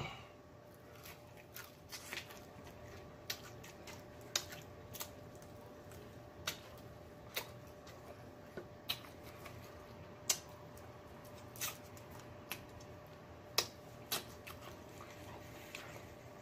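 Close-miked mouth sounds of chewing breaded fried chicken: short sharp wet smacks and clicks at irregular intervals, about one a second, over a faint steady hum.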